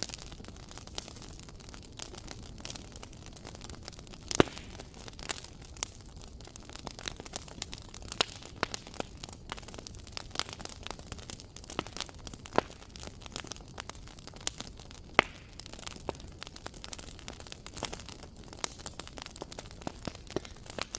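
Wood fire crackling in a fireplace: a steady low hiss with irregular snaps and pops, a few of them much louder.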